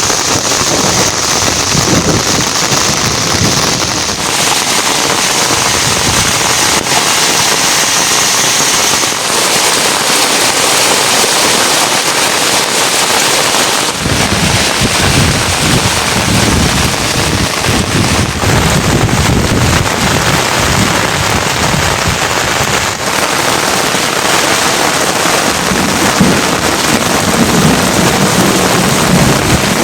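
Heavy rain falling steadily, with a low rumble coming and going from about halfway.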